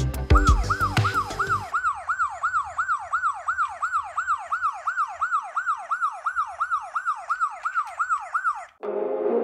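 Police siren in fast yelp mode, each sweep dropping in pitch, about three sweeps a second, cutting off abruptly near the end. Music with heavy drums plays under its first second or so, and other music starts just after the siren stops.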